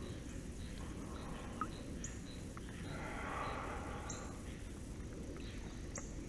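Quiet outdoor ambience with a short high bird call about every two seconds and softer chirps in between.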